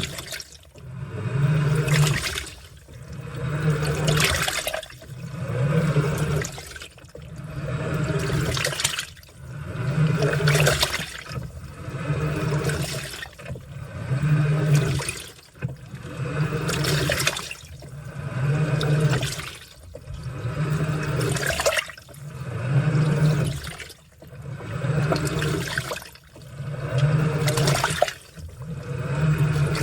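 Washing machine running a wash: water sloshing and churning in the tub, with the motor's low hum surging and easing about every two seconds as the wash action drives the laundry back and forth.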